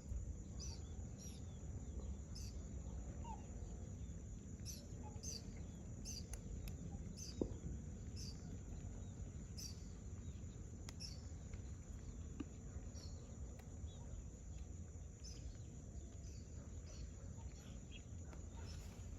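Birds chirping in short, repeated high calls over a steady low background rumble, with a couple of faint knocks, the clearest about seven seconds in.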